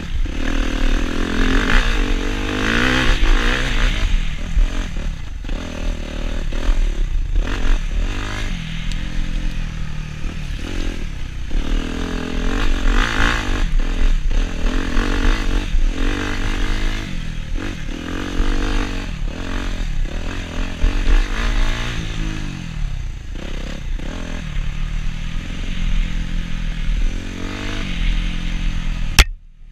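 Suzuki RM-Z250 four-stroke single-cylinder dirt bike engine revving up and down as it is ridden hard along a trail, with the pitch climbing and dropping again and again, over rattling and wind noise from the ride. The sound cuts out briefly near the end.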